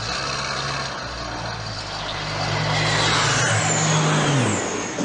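Car engine running steadily under a broad rushing noise. Its pitch falls and it fades about four and a half seconds in.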